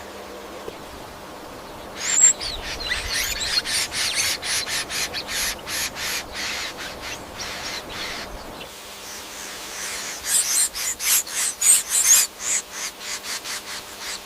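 A bird's harsh, rasping call repeated in quick strokes, about three or four a second, in two long runs: one starting about two seconds in, the other about ten seconds in.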